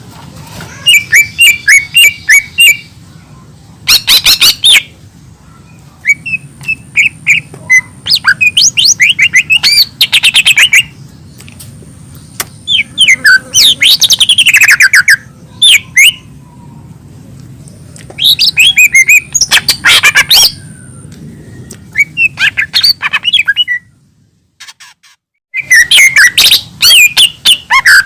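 Green leafbird (cucak ijo) singing loud, rapid phrases of chirps and whistles, in bursts a second or two long with short pauses between. The song cuts out briefly about three-quarters of the way in, then starts again.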